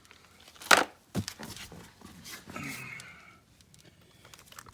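Handling noise: a sharp knock about three-quarters of a second in, a second knock soon after, then scattered lighter clicks and rustles.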